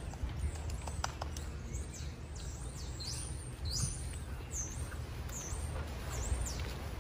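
Small birds chirping: short, high calls that sweep down in pitch, coming about every half second from about three seconds in, over a low steady rumble.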